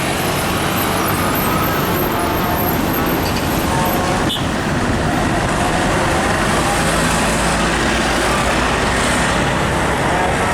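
Steady road traffic with heavy trucks' diesel engines running as they pass, and a single sharp click about four seconds in.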